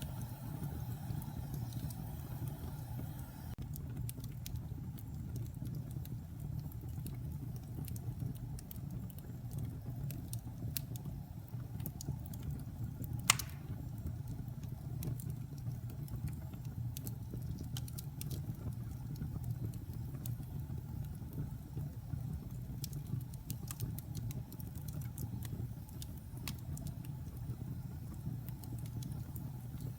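Wood fire burning in a fireplace: a steady low rumble of flames with scattered small crackles from the wood, and one louder pop about halfway through.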